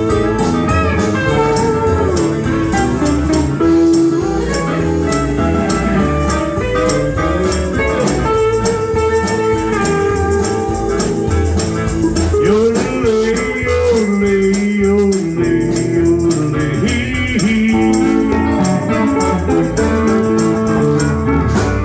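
Country band playing an instrumental stretch of the song, a guitar leading over a steady drum beat.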